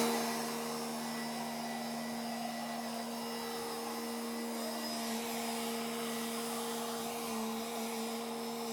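Steady machine hum: a constant low tone with a second tone an octave above it, over a faint even hiss, unchanging throughout.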